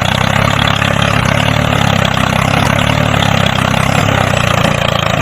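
DIY mini tractor's small motor running steadily, an even hum with a rough noisy layer over it.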